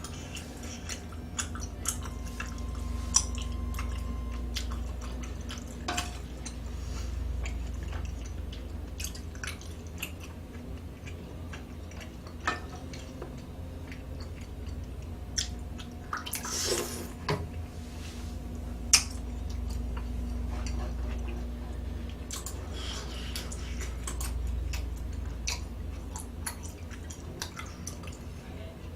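Close-up eating sounds: chewing, with scattered small clicks and taps of utensils against dishes and a brief louder noisy burst about two-thirds of the way through, over a low steady hum.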